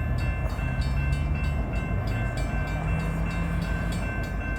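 Diesel locomotives of a stopped Union Pacific freight train idling: a steady low engine hum that wavers slightly in pitch, with a thin, steady higher whine and a regular fast ticking of about four clicks a second.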